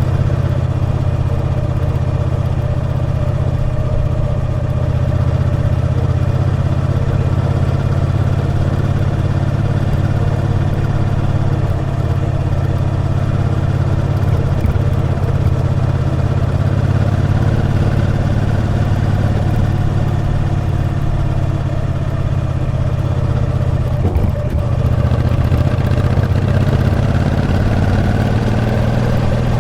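Triumph Bonneville T120's 1200 cc parallel-twin engine running steadily under way on the road. Past the two-thirds mark the note dips briefly, then rises steadily near the end as the bike accelerates.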